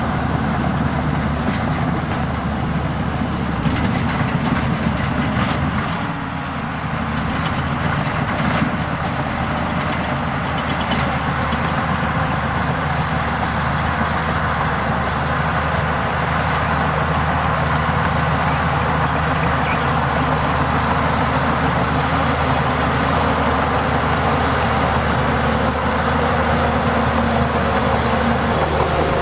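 Heavy earthmoving machine's diesel engine running steadily under load, with scattered metallic knocks between about four and eleven seconds in and a brief drop in level about six seconds in.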